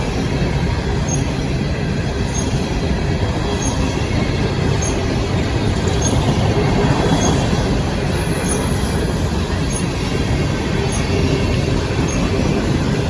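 CSX coal train's cars rolling past on the rails: a loud, steady rumble of steel wheels on track.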